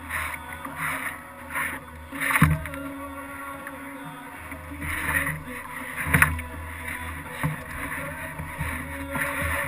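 Kayak paddle strokes splashing in the water, coming in irregular swishes, with two sharp knocks, about two and a half and six seconds in, as the paddle strikes the hull.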